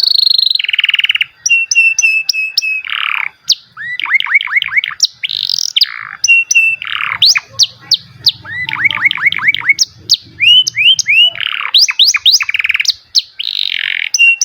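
Canary singing a long, varied song with barely a pause: quick runs of repeated down-sweeping notes, fast buzzy trills and short held high whistles.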